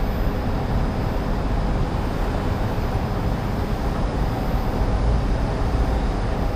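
Steady low rumble of wind and road noise from riding an e-bike through city streets, with no distinct events standing out.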